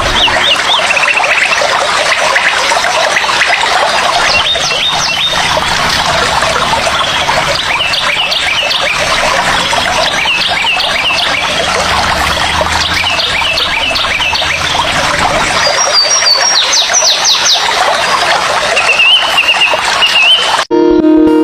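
A dense chorus of many birds calling at once, with overlapping chirps, trills and squawks. It cuts off abruptly near the end.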